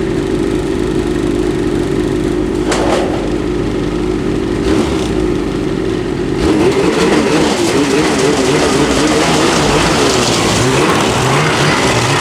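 Ski-Doo Renegade Backcountry's freshly rebuilt 850 E-TEC two-stroke twin running cold at its first start of the season, steady at first, then its speed wavering up and down and a little louder after about six seconds. It doesn't sound too good.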